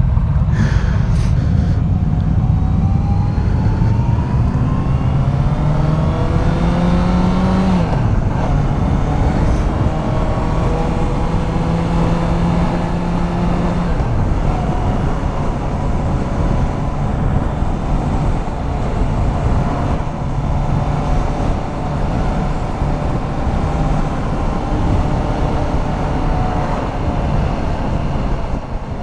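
Motorcycle engine accelerating, its pitch rising through a gear and dropping at upshifts about eight and fourteen seconds in, then running steadily at cruising speed, over a constant rush of wind and road noise.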